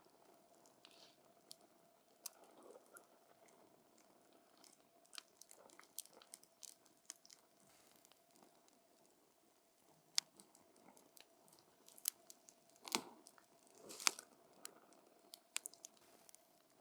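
Wood campfire crackling: irregular sharp snaps and pops over a soft hiss of burning, with two louder pops close together about 13 and 14 seconds in.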